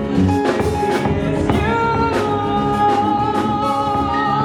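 Live band music with drums, and a long held note that starts about a second and a half in and carries on.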